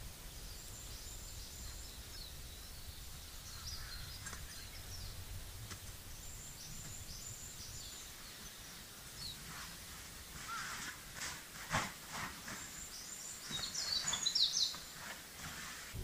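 Small songbirds chirping and trilling over a low, steady outdoor rumble, with a few sharp knocks and rustles in the second half.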